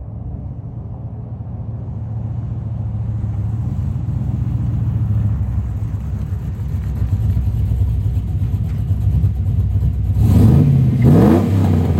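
Cammed 5.3 V8 running through long-tube headers and small burnt-tip muffler tips, a choppy low rumble that slowly gets louder. About ten seconds in it revs up sharply and loudly, then eases off.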